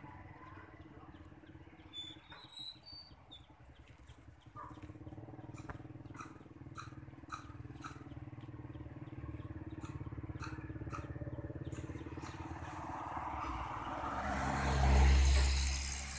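A small motorcycle engine running steadily, growing louder to a peak about a second before the end and then easing off.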